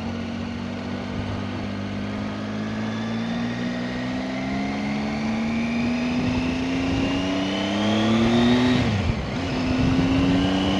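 Motorcycle engine pulling hard through a gear, its pitch rising steadily for about nine seconds, then dropping sharply as it shifts up and starting to climb again, with wind and road noise underneath.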